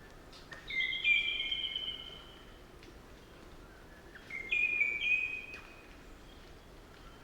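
Crimson rosella giving two clear, drawn-out whistled calls, each with a step in pitch, the first about a second in and the second about halfway through.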